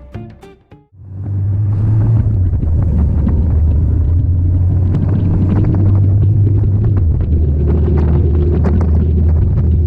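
A 1966 Triumph Spitfire's 1147cc four-cylinder engine running steadily with a low rumble, which comes in about a second in.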